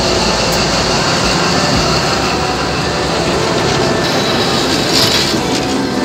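Passenger train carriages rolling past at close range, with a steady rumble and clatter of steel wheels on the rails. A brief sharper, brighter burst comes about five seconds in.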